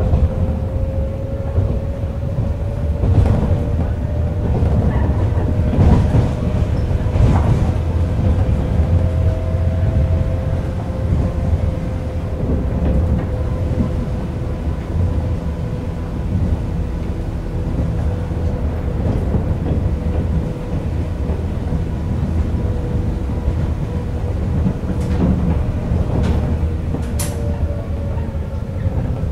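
JR 101 series electric train running, heard aboard: the MT46 traction motors' whine holds a steady pitch over the low rumble of wheels on rail, easing slightly near the end. A few rail-joint knocks come through, and there is one sharp high click a little before the end.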